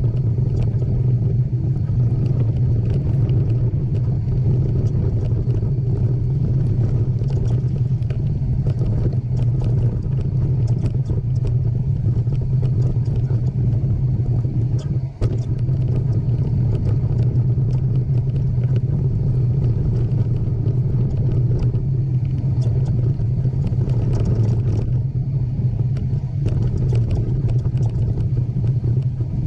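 Mountain bike riding a trail: a steady low rumble with a constant patter of small rattles and clicks, broken by a brief drop in level about halfway through.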